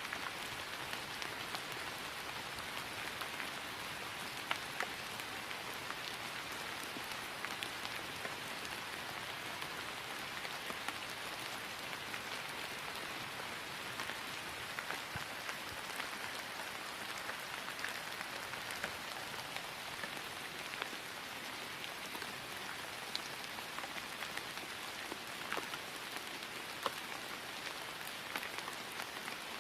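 Steady rain falling on grass: an even hiss scattered with many small, sharp drop taps.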